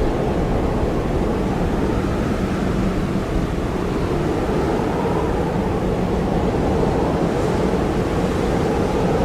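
Blizzard wind blowing in a steady, deep roar with no gusts standing out.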